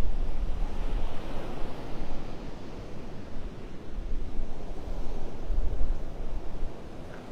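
Surf washing onto the beach, a broad rushing swell about a second in, with gusts of wind buffeting the microphone in low, uneven rumbles.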